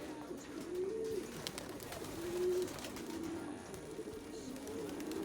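Racing pigeons cooing: a run of low, wavering coos one after another, with a few faint clicks among them.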